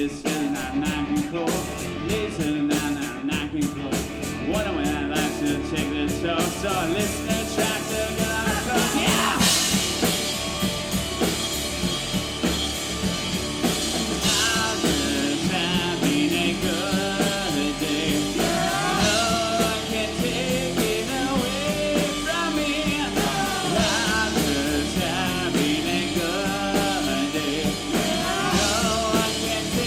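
Live rock band playing a song with electric guitar, bass and drums, the sound filling out and getting a little louder about eight to ten seconds in.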